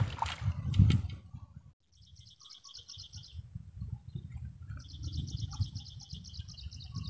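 A bird calling in a fast trill of rapidly repeated high notes, twice, each lasting one to two seconds, over a low rumble.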